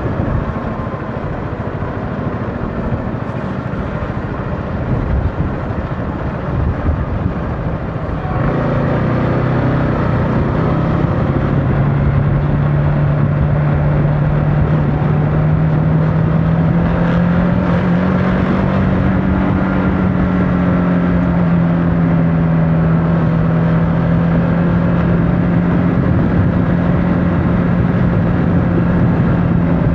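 Motorcycle riding along with wind rush over the microphone. About eight seconds in the engine note becomes a strong, steady hum that rises a little and then holds, as at a steady cruising speed.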